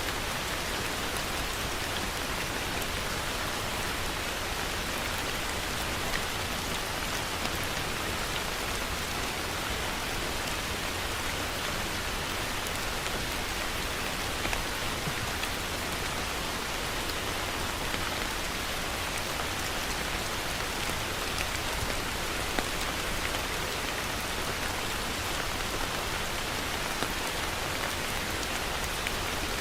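Heavy rain falling steadily, a dense even hiss with scattered louder drop impacts.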